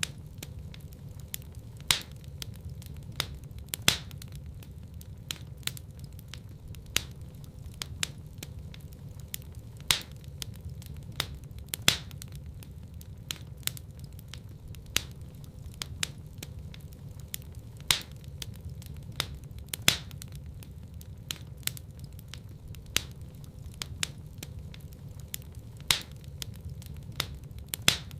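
Wood fire in a fireplace crackling: many small pops and louder sharp snaps every couple of seconds over a low steady rumble.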